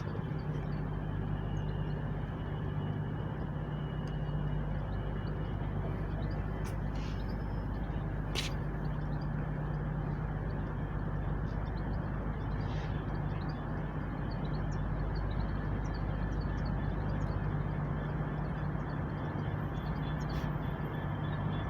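Diesel railway engine running steadily with an even low hum, and a few faint clicks over it.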